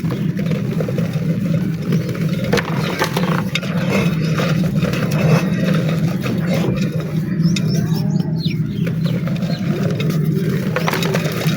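Dry black mud crumbling and crunching, a scatter of irregular sharp crackles over a steady low hum. Birds chirp briefly about two thirds of the way in.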